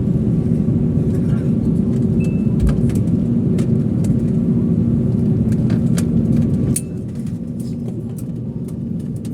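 Airliner cabin noise after landing: a steady low drone from the jet engines and airframe, with small rattles and clicks from the cabin. It drops to a quieter level about seven seconds in.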